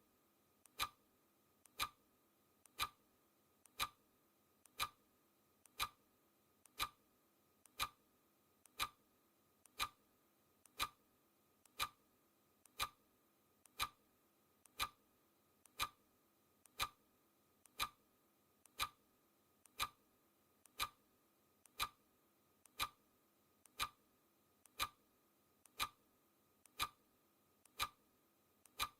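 Clock ticking sound effect, a steady tick about once a second, each tick led by a fainter click.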